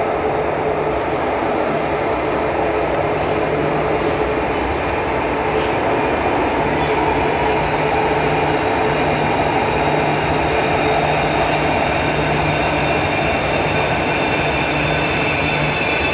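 A Renfe Civia Cercanías electric train running into an underground station and slowing to a stop, a steady rumble from the wheels on the track. A thin high whine builds near the end as it brakes.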